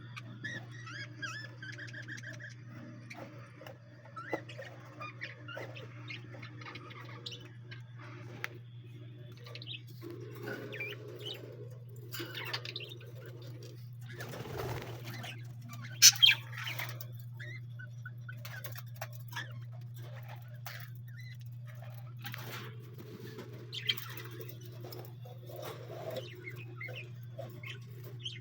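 Ornamental aviary birds chirping and calling, with dove-like cooing mixed in, over a steady low hum. A couple of sharp clicks about halfway through are the loudest sounds.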